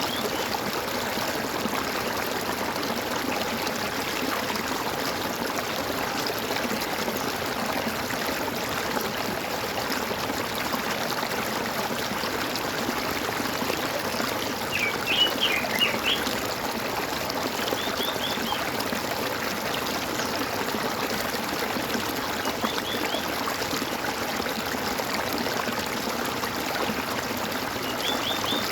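Water gurgling and trickling steadily, with a few brief clusters of bird chirps, the loudest about halfway through.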